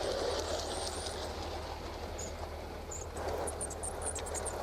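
G-scale model train running along garden railway track, a steady hum of the locomotive's motor and wheels on the rails.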